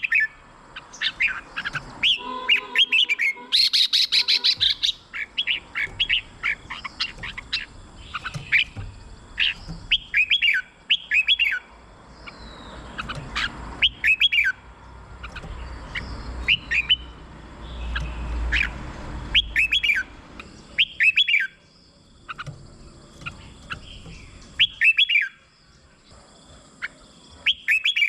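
Red-whiskered bulbul singing: short, bright whistled phrases that rise and fall, repeated every second or so, with a harsh rattling burst about four seconds in.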